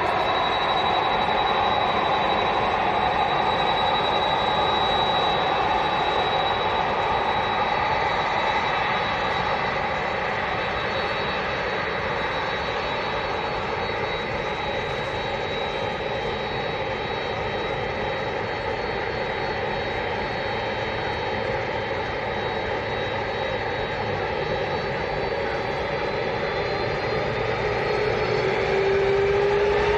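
Jet airliner engines running steadily close by, a whine of several steady tones over a rushing noise; near the end the tones rise in pitch as the engines spool up.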